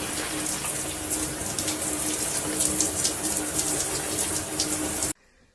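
Steady rush of running water that cuts off suddenly about five seconds in.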